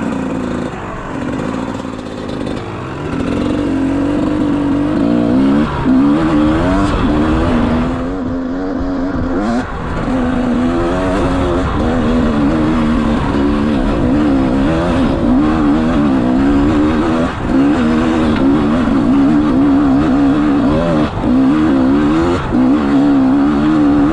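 GasGas 250 enduro dirt bike engine being ridden hard, its pitch rising and falling over and over as the throttle is opened and closed, with a few brief drops in loudness.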